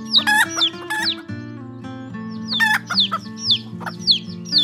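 Chickens calling: short, high, falling peeps repeated in quick runs, pausing for about a second in the middle. Soft background music with held notes plays underneath.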